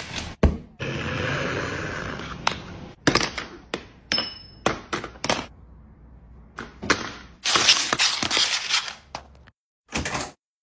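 A run of crashes, sharp knocks and clattering, as of a hard object striking and knocking things over. Two longer stretches of clatter come about a second in and around seven and a half seconds in.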